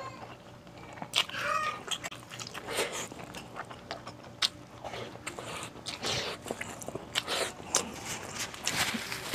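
Close-miked chewing and wet mouth smacking as soft stewed beef and rice are eaten by hand, with irregular smacks and clicks.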